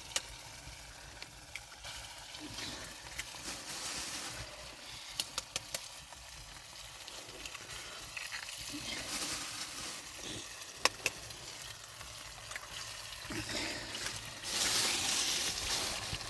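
Cooking oil sizzling in a pan, a steady hiss broken by a few sharp crackles and clicks. The sizzle swells louder near the end.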